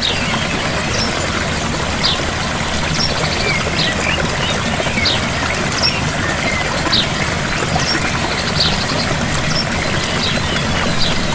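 Small waterfall running steadily, with wild birds chirping over it, short high calls every second or two.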